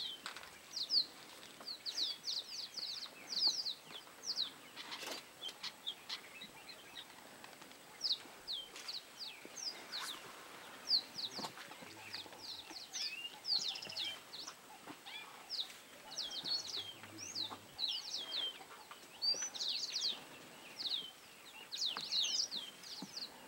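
Small birds chirping busily, a dense run of short, quick, high chirps that sweep downward, coming in bunches.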